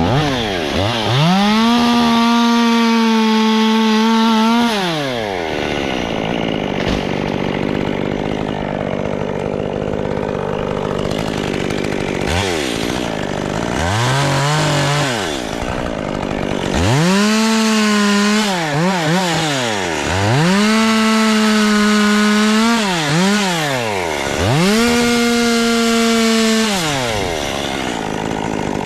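Chainsaw run in repeated bursts at full throttle, about five times: each time the pitch climbs fast, holds steady for a few seconds and drops back. Between the bursts there is rougher, lower running.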